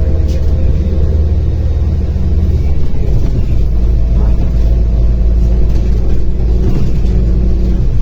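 Diesel engine of a MAZ-105 articulated city bus running under way, heard from inside the cabin as a steady drone with road rumble. The engine note changes about three seconds in.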